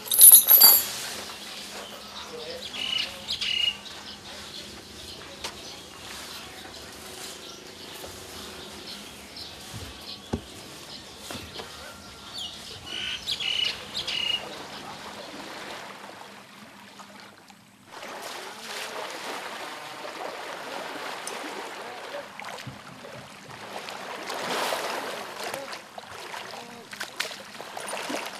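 Outdoor ambience with a few short bird chirps. A sharp noisy burst opens it, and after a brief drop a steady hiss fills the second half.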